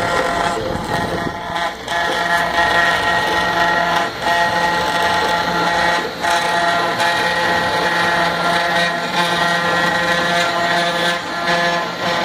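CNC router spindle running as it cuts wood, a steady whine over a rough cutting noise that dips briefly a few times.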